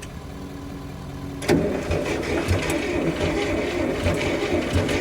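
Old tractor engine being cranked and catching roughly: a faint steady hum at first, then about a second and a half in it turns over loudly with uneven thumps a few times a second. Its spark plugs have worked loose in their threads, so the cylinders have little compression.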